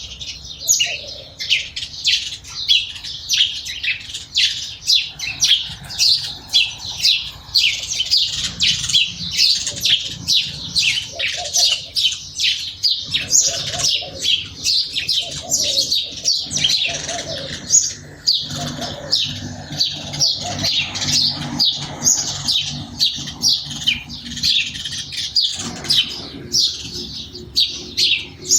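A group of sparrows chirping: a steady stream of short, overlapping chirps, several a second, without a break.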